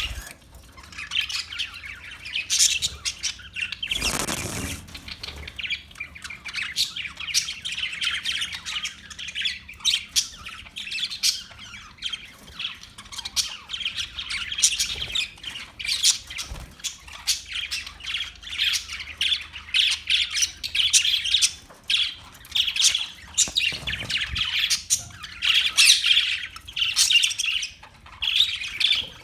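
A flock of parakeets chirping and squawking continuously, many short, overlapping high calls. There is a brief noisy rustle or thump about four seconds in.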